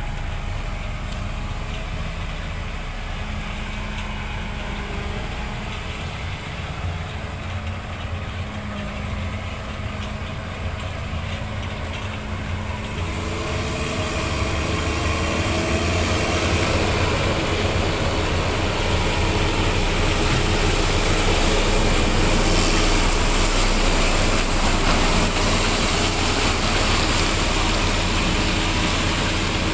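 Heavy vehicle engine running steadily with a low hum. About 13 seconds in it grows louder and a rushing noise spreads over it.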